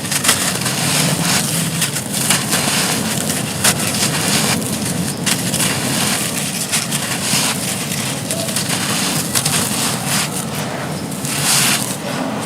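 Dry, dusty, gritty material being crushed and crumbled, a continuous run of small crunches and crackles with no pauses.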